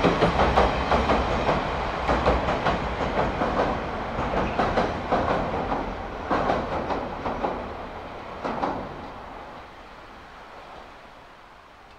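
Diesel railcar running past, its wheels clacking over the rail joints in quick groups of beats that grow fainter as it moves away, with a last clack about eight and a half seconds in.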